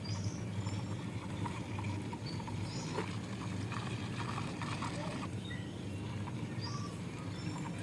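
Small plastic toy vehicle pushed by hand along a wall: scattered light clicks and taps of its wheels and body, over a steady low hum.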